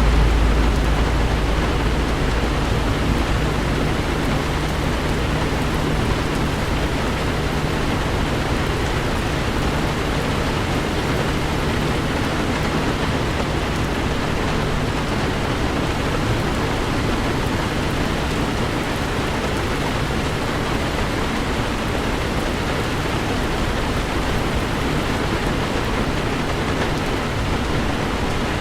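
Heavy rain falling steadily on a car while it drives, heard from inside the vehicle as an even hiss of rain and road noise. A deep low rumble at the start fades away over the first couple of seconds.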